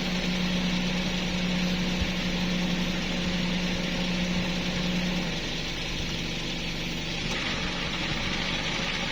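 A motor running steadily with a low, even hum; the hum's main tone drops away about five seconds in while the engine keeps running.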